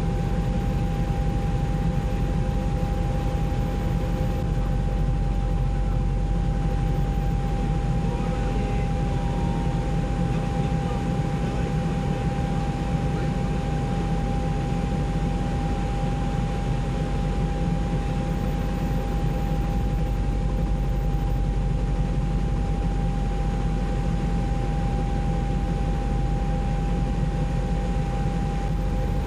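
Helicopter cabin noise: the engine and rotor run steadily, a low rapid rotor beat under a constant high whine.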